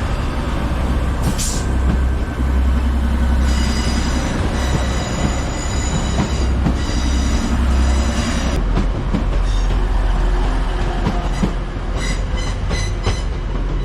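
A six-car Class 185 diesel multiple unit pulls away with a steady low engine drone. Its wheels squeal in high, steady tones for several seconds in the middle, then in shorter, broken squeals near the end. There is a brief clank about a second in.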